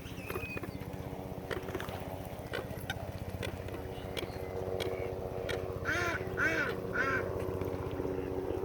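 Ducks quacking: three quacks in quick succession near the end, over a steady low motor hum.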